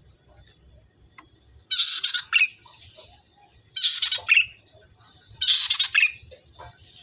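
Golden-headed cisticola (cici merah, 'salome') calling: three short, buzzy, high calls about two seconds apart.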